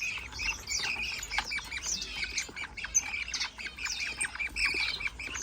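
Many small caged birds calling at once: dense, continuous squawking and chirping chatter from budgerigars and finches.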